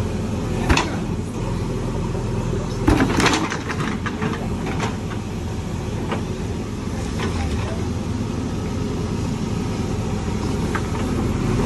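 Diesel engine of a JCB 3DX backhoe loader running steadily, with a few sharp knocks, the loudest cluster about three seconds in.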